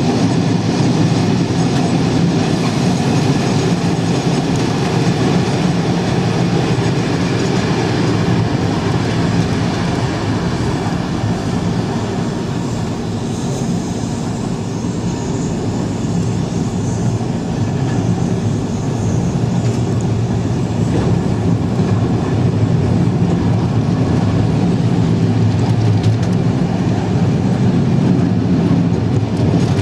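Sydney double-deck electric suburban train passing close by: a steady rumble of wheels on rail that eases a little midway and builds again toward the end.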